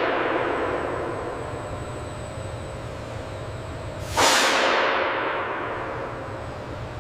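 A heavy metallic clang-like impact hit with a long ringing decay about four seconds in, after the fading tail of a similar hit just before, over a low steady hum.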